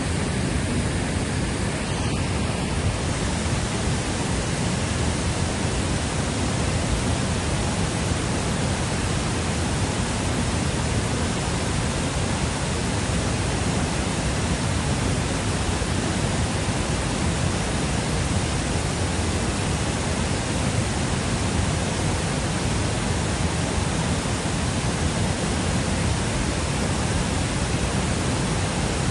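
Steady rush of fast-flowing water, an even noise with no breaks.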